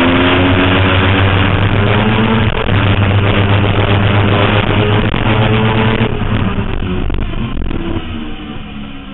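Suzuki GSX-R750 inline-four sport bike engine running hard at high revs under wind rush, heard from on board the bike. About six seconds in the throttle closes and the engine note and wind fall away as the bike slows for a corner.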